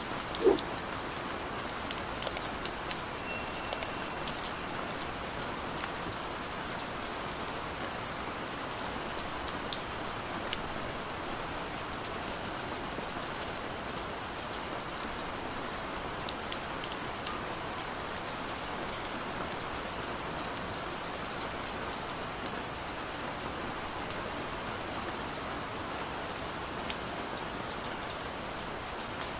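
Gentle rain falling steadily, an even hiss with scattered drops ticking on a surface. A single louder drop or plop lands about half a second in.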